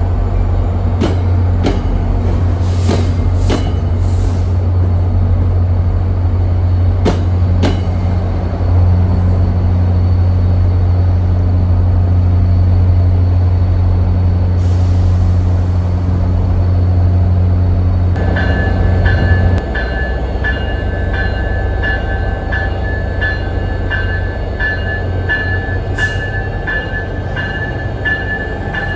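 NJ Transit commuter trains moving through the terminal: a steady low rumble of a train running alongside with scattered clicks from the wheels on the rails. In the latter part a locomotive comes in, with a high ringing tone repeating a little more than once a second over the rumble, like its bell.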